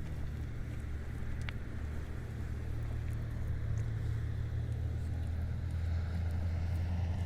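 A steady low motor hum, like an engine running, growing slightly louder toward the end, with a faint click about a second and a half in.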